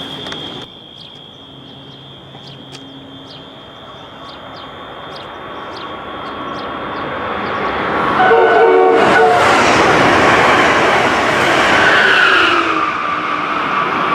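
A train passing through the station at speed: its rumble builds from about halfway in and is loudest near the end. A short horn blast sounds as it arrives, and its whine falls in pitch as it goes by.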